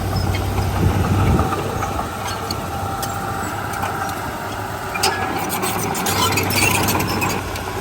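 Heavy diesel machinery engine running, its low hum easing after about a second and a half and picking up again near the end, with metallic clanks and rattles about five to seven seconds in.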